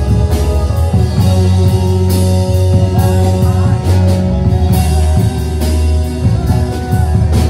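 Live worship band playing a slow song: drum kit keeping a steady beat under sustained bass and electric guitar, in a passage between sung lines.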